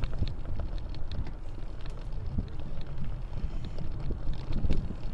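Wind buffeting an action camera's microphone during an off-road bicycle ride, a steady low rumble, with scattered clicks and rattles from the bike on the dirt trail.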